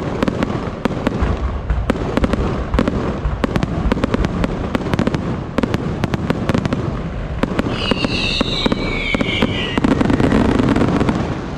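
Fireworks going off: dense, rapid crackling and popping throughout, with a high whistle that falls in pitch about eight seconds in.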